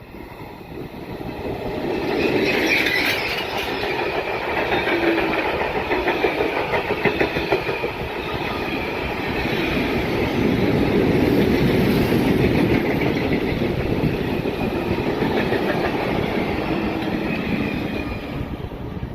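Train passing by: loud rolling noise from the wheels on the rails, with rapid clicking over the rail joints and a steady high ringing. It builds up over the first two seconds and begins to fade near the end.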